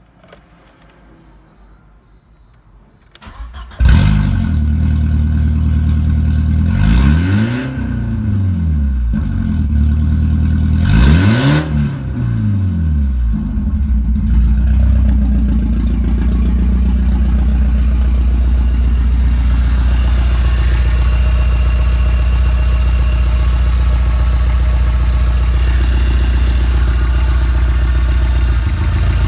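Audi A4 B5 1.6-litre ADP petrol inline-four cranked and catching about three seconds in. It is revved up and back down twice, then settles into a steady idle.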